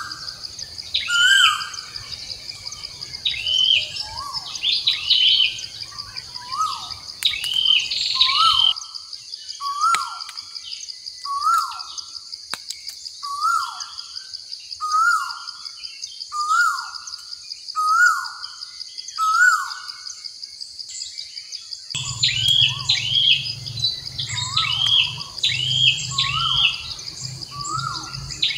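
Bird calls repeating over a steady high buzz: a short falling call about once a second, with higher chirps between the calls. Most of the higher chirps and a low hum drop out for a stretch in the middle.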